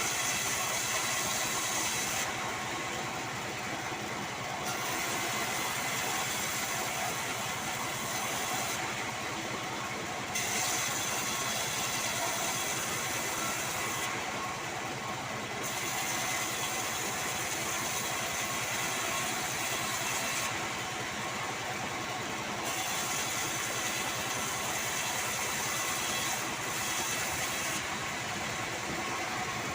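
Band sawmill running steadily while sawing sengon wood, a dense mechanical hiss with a steady hum under it. The highest part of the hiss drops away for a second or two about every six seconds.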